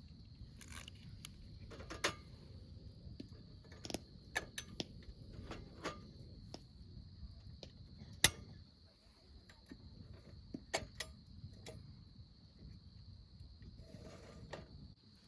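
Scattered sharp clicks and light clinks, with one loud knock about eight seconds in, over a steady high trill of insects.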